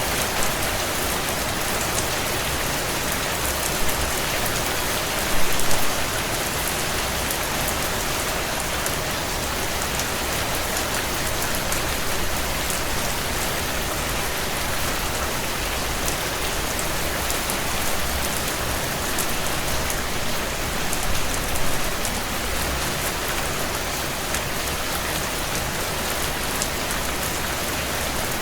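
Heavy rain falling steadily on window glass, an even hiss. Over it come fine scattered crackles from a wood fire, with a short louder cluster of pops about five seconds in and again near twenty-one seconds.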